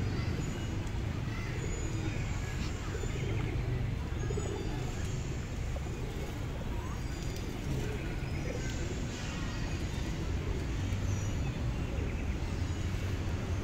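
Steady city traffic rumble with faint, indistinct voices mixed in.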